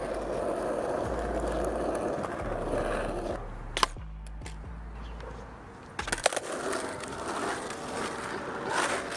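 Skateboard rolling on pavement, with a sharp clack of the board a little under four seconds in and a quick cluster of clacks about six seconds in, then rolling again.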